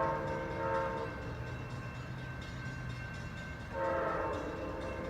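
Amtrak Auto Train locomotive horn sounding two blasts: one ending about a second in, the next starting near four seconds, with the train's low rumble between.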